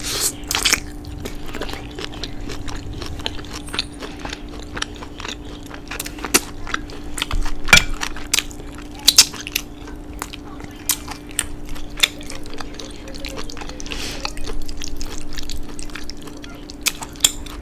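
Close-miked eating: a person bites into and chews a sauce-glazed BBQ rib, with wet mouth clicks and smacks scattered throughout. A faint steady hum runs underneath.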